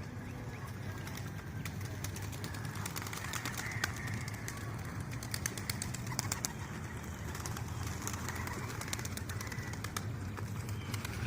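Domestic pigeons at a loft cooing, with scattered sharp clicks over a steady low rumble.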